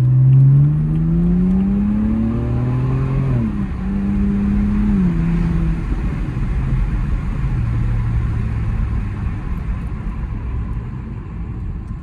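BMW E82's N52 inline-six with a muffler delete accelerating: the exhaust note climbs for about three seconds, drops at an upshift, holds briefly, drops again about five seconds in, then settles into a steady low cruising drone with road noise.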